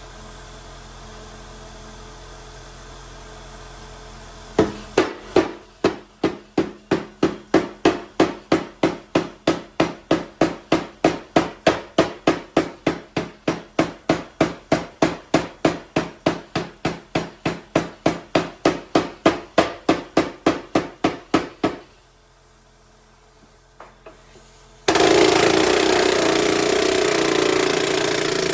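Hammer blows on thin aluminium sheet being hammer-formed over a wooden buck: a steady run of sharp metallic strikes, about three a second, for some seventeen seconds. After a short pause, a loud continuous power-tool noise starts near the end.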